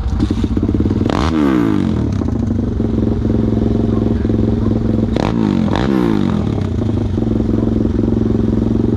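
Pit bike's single-cylinder engine idling, with two quick throttle blips, about a second in and again around five seconds in, each rising and falling back to idle.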